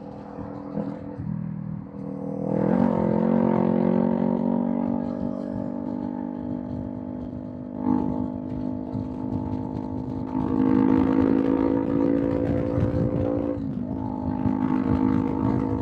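Kawasaki Z400 parallel-twin engine through a Villain M1 aftermarket exhaust, running under way. It is quieter for the first couple of seconds, then gets louder and rises in pitch as the throttle opens about two and a half seconds in. It gets louder again around ten seconds, dips briefly in pitch near fourteen seconds, then runs steadily on.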